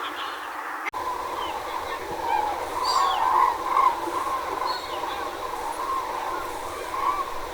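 Water rushing through a pond sluice as a steady hiss, with waterfowl calling over it, loudest between about two and four seconds in, and a few short, higher bird chirps. The sound cuts out for an instant about a second in.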